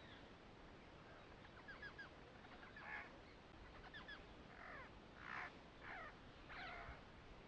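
Faint bird calls: scattered short chirps, then several longer calls that fall in pitch in the second half.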